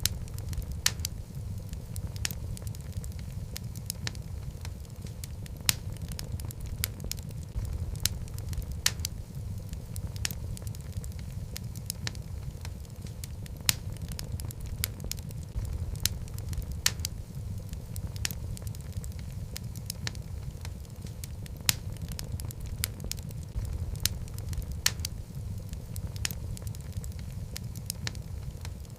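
Wood logs burning in a fireplace: a steady low rumble of flame with frequent sharp, irregular crackles and pops.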